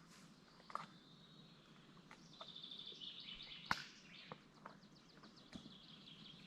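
Faint songbird singing a high trill of rapidly repeated notes, with scattered sharp clicks; the loudest click comes a little before the middle.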